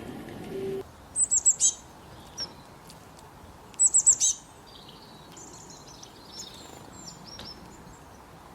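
Small bird singing: two quick runs of four high, down-slurred notes about two and a half seconds apart, followed by softer high chirps. A low hum cuts off about a second in, before the first run.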